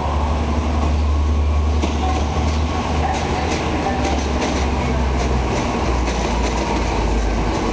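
Regional passenger train moving slowly through a station, with a steady low rumble and wheels clicking over the rails.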